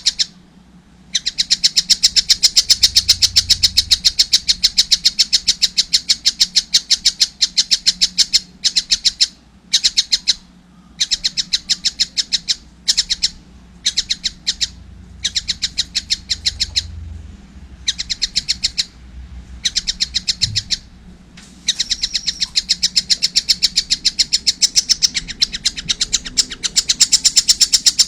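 Young collared kingfisher calling steadily: long runs of rapid, sharp, high chattering notes, broken by brief pauses.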